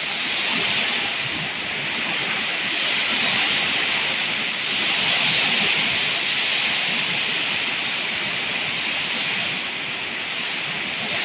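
Torrential rain pouring down in a steady, dense hiss that swells and eases slightly, from a summer thunderstorm downpour.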